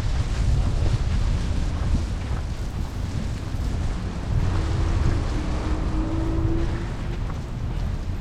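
Storm wind buffeting the microphone: a dense, uneven low rumble that swells and eases.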